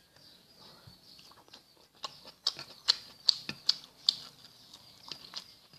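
Close-miked eating sounds: a string of sharp, irregular wet clicks from chewing and the mouth, faint at first and growing louder and more frequent from about two seconds in, at roughly two or three a second.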